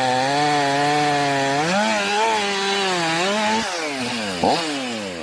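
Chainsaw cutting wood, its engine running at a steady pitch under load. The pitch then wavers, and from about three and a half seconds in it revs sharply up and down as the throttle is worked.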